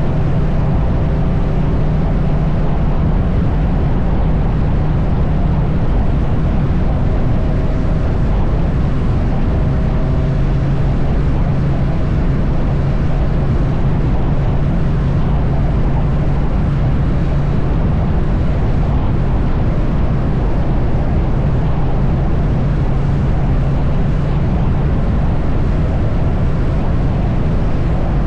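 Triumph Bonneville T100's parallel-twin engine running steadily at highway cruising speed, heard from the bike, with wind noise on the microphone.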